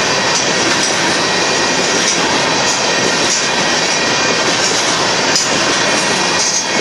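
Freight train of covered hopper cars rolling past at close range: steady, loud noise of steel wheels running over the rails and rail joints, with the cars clanking.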